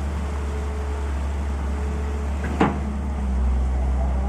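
A large engine running steadily with a low hum, and one sharp knock about two and a half seconds in.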